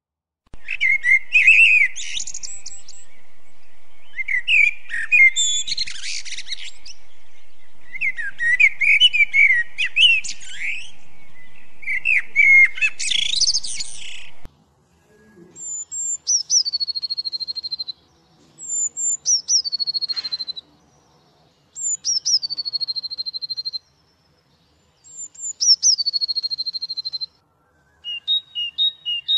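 Songbird singing: about four bursts of fast, high warbling song, then four separate calls that each drop sharply in pitch and end in a held trill.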